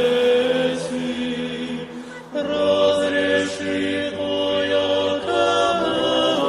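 A choir singing a slow chant in long held chords of several voices. The singing thins out about two seconds in, then comes back on a new chord.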